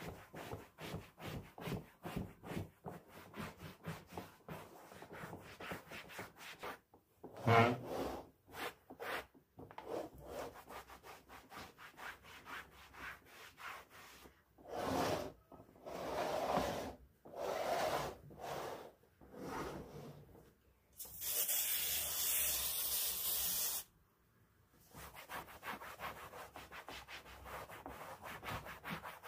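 Rapid back-and-forth scrubbing or rubbing strokes, with a few louder strokes partway through. A steady hiss lasting about three seconds follows, then the quick strokes resume.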